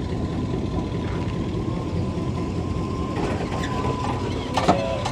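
Lowrider Chevy Impala's engine running at low speed, a steady low rumble, with one sharp click near the end.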